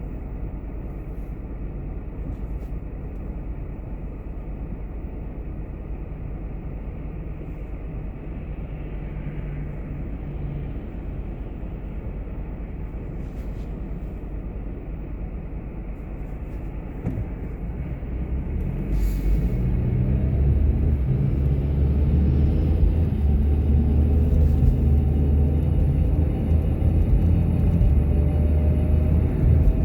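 Car driving: steady low road and engine rumble that grows louder about two-thirds of the way in, the engine note then rising slowly in pitch as the car speeds up.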